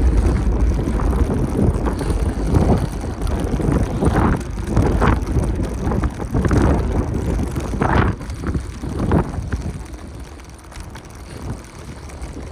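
Wind rumbling on the microphone of a moving bicycle, with scattered short rattles and bursts of street noise; it eases off about ten seconds in.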